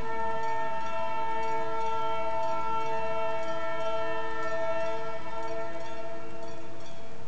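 Diesel locomotive's multi-note air horn held in one long steady chord, sounded for level crossings; the lowest note drops out near the end.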